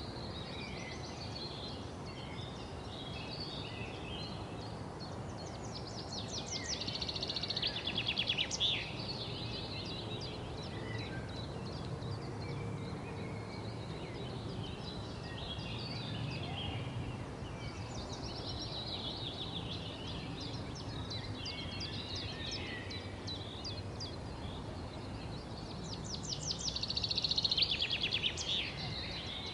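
Wild songbirds singing and chirping over a steady outdoor background hiss. About every ten seconds one bird delivers a long song of fast, evenly repeated high notes that swells louder before stopping, three times in all, with smaller scattered chirps in between.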